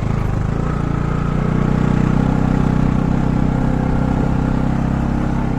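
Motorcycle engine running steadily under way, its note holding fairly even and getting a little louder a couple of seconds in.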